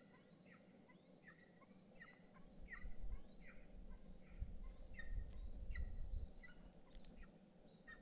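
A bird calling in a fast, even series of short chirps, about two a second, each sweeping sharply upward in pitch. A low rumble rises under the calls in the middle.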